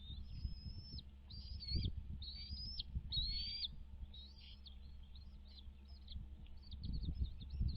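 Birds calling: a few drawn-out high whistled calls in the first four seconds, then a run of shorter high chirps. A low rumble runs underneath and swells near the end.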